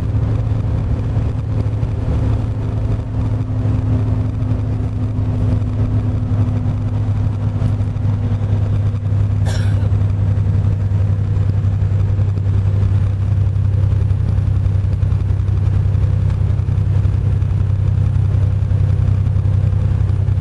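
Semi-truck's diesel engine and road noise, a steady low drone while driving, with one brief high squeak about halfway through.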